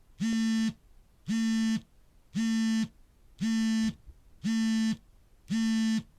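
Smartphone vibrating for an incoming call: six half-second buzzes, evenly spaced about once a second.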